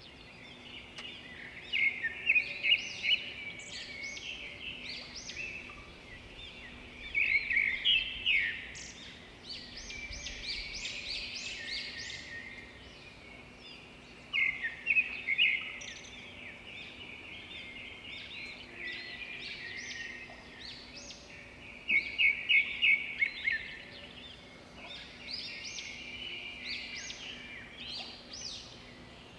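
Small birds chirping and twittering throughout, with louder bursts of rapid chirps every six to eight seconds, over a faint steady hum.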